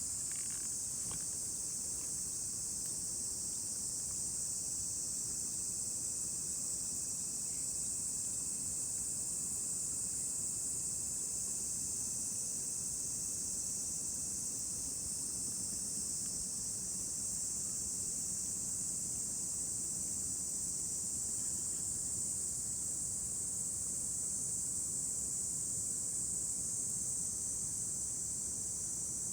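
Steady, high-pitched insect chorus, such as crickets, running without a break, over a faint low background hiss.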